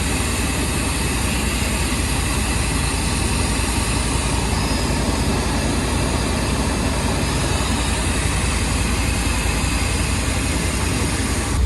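OBS pickup truck's engine idling steadily and sounding even, its misfire cured by new spark plug wires.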